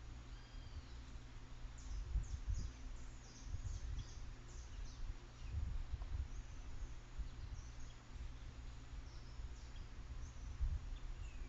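Wild birds chirping: many short, high calls and a few quick falling notes, over a steady low rumble.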